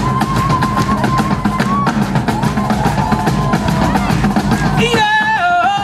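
Live Celtic tribal rock: bagpipes playing a melody over their steady drones, driven by heavy pounding drums. Near the end the drums drop out, leaving the pipe melody.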